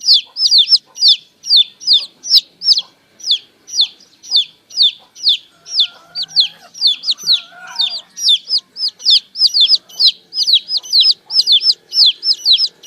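Baby chicks peeping steadily: short, high calls that fall in pitch, several a second. A few lower, gliding calls come in between about six and eight seconds in.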